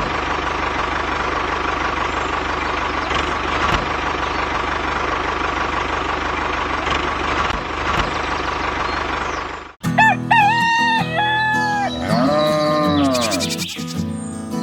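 A small motor running steadily for about ten seconds, then cutting off suddenly. A rooster crows with music underneath, in two calls that rise and fall.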